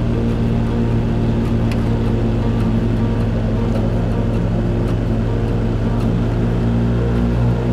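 Motorcycle engine running at a steady cruising speed with wind and road noise, recorded on the moving bike; the engine note shifts slightly near the end.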